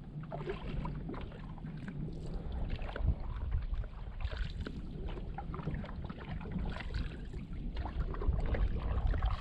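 Canoe paddling: a paddle dipping and pulling through the water with splashing, and wind buffeting the microphone as a low rumble.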